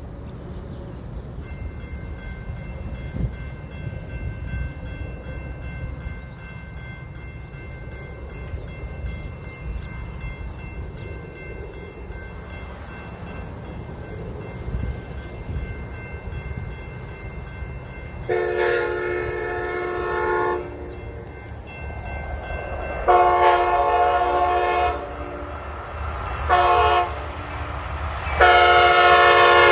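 Locomotive horn sounding the grade-crossing pattern: two long blasts, a short one, and a final long one, over the low rumble of the approaching train. The last blast starts to drop in pitch as the train passes.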